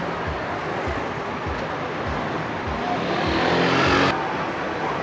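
Street traffic noise, with a motor vehicle's engine growing louder from about three seconds in as it passes close, then cut off suddenly just after four seconds.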